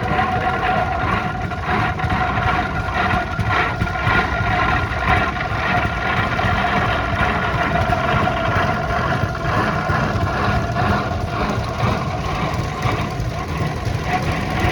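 Antique tractor engines running steadily at low speed.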